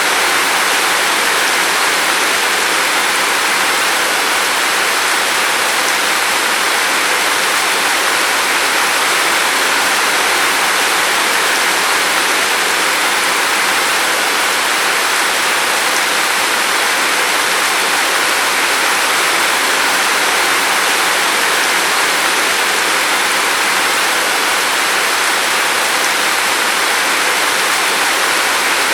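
Steady rain falling, an even, unbroken hiss with no separate drops, thunder or other events standing out.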